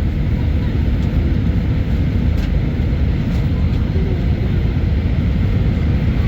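Steady low cabin noise inside an Airbus A319 airliner in flight: the engines and airflow giving an even roar.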